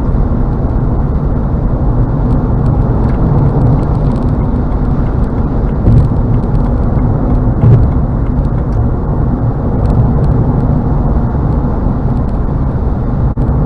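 Steady road noise of a car driving at highway speed, heard from inside the cabin: a continuous low rumble of tyres and engine, with two brief louder bumps about six and eight seconds in.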